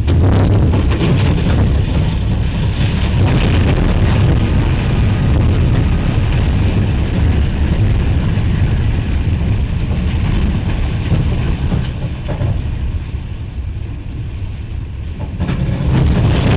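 Heavy, steady low rumble of a derailing freight train, heard from the front of the locomotive. It eases off about twelve seconds in and swells again near the end.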